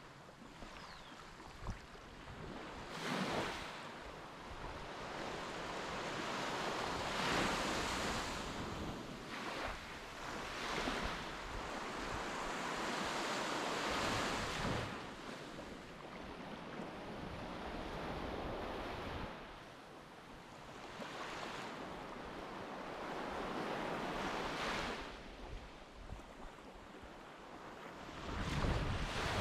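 Sea waves washing in and breaking, the noise swelling and falling away every few seconds, with wind buffeting the microphone.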